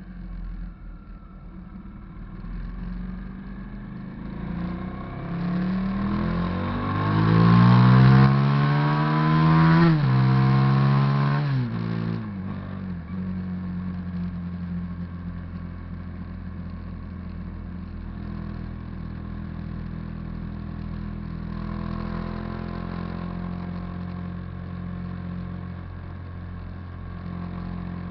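Hyosung GV650's V-twin engine pulling hard, its pitch climbing for several seconds to its loudest, then dropping sharply as the throttle comes off, and settling into a steady cruise with a slight rise again later.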